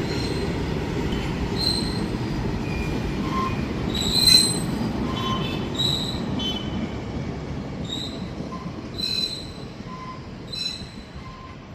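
Train rolling on the rails, a steady low rumble that slowly fades in the second half, with short high-pitched wheel squeals every second or so, the loudest about four seconds in.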